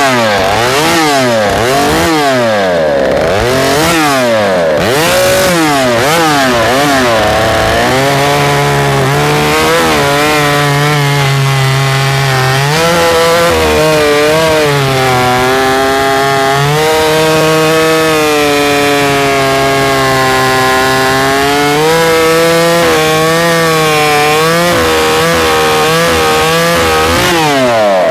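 Husqvarna 395 XP clone chainsaw, a two-stroke fitted with a pipe, revved up and down several times and then held at full throttle cutting through a red hickory log. Its pitch sags and recovers under load in the cut, then drops away near the end.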